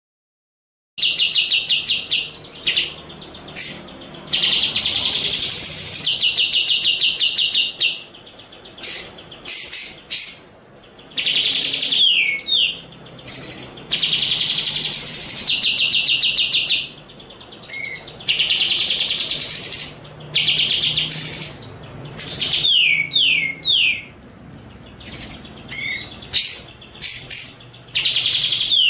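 Songbird song: phrases of fast, even trills alternating with rising and falling whistles and quick downward-sweeping notes, broken by short pauses. It begins about a second in, after silence.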